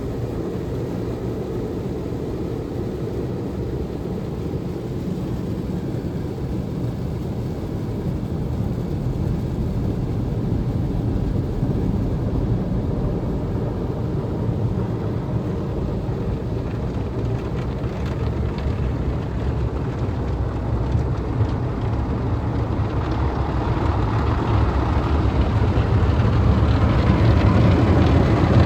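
Automatic car wash machinery running: a steady low rumble and rush that grows louder and fuller in the last few seconds.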